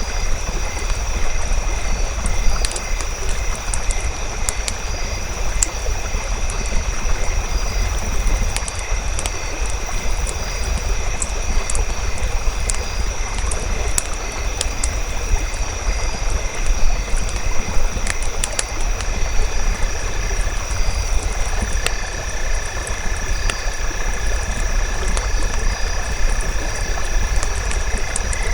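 Campfire crackling, with frequent small pops over a steady low rumble of burning. Behind it, a steady high drone and soft rhythmic chirping of night creatures run on, with a second chirping call joining about two-thirds of the way in.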